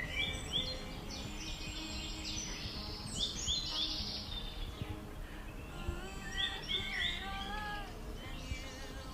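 Birds chirping in short runs of quick, high notes that recur every few seconds, over steady outdoor background noise, with soft background music.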